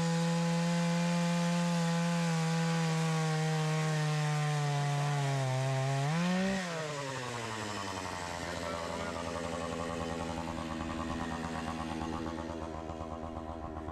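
Chainsaw cutting through a fallen tree at full throttle, its engine note slowly dropping as the chain bites. About six seconds in it revs up briefly as it clears the cut, then drops back to a lower, quieter idle.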